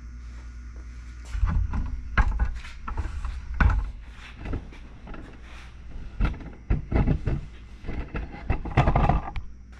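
Irregular knocks and clunks of metal engine parts being handled and set down on a workbench, over a steady low hum.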